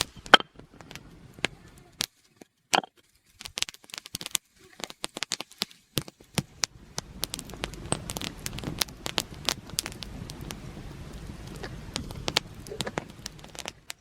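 Wood campfire crackling, with irregular sharp pops and snaps from burning twigs and logs.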